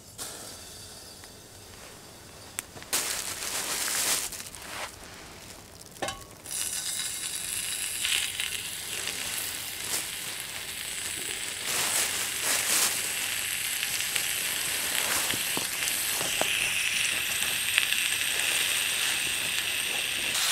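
Fillets frying in a pan over a spirit burner: a sizzle that grows louder and steadier about six seconds in, with a few short knocks and scrapes in the pan.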